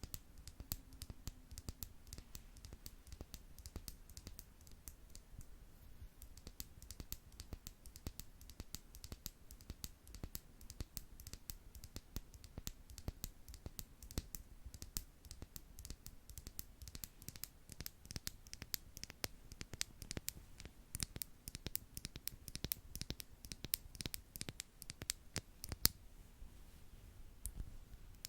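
Makeup brushes tapped and brushed against a microphone in quick, irregular taps and scratches. The taps grow crisper and denser about two-thirds of the way in.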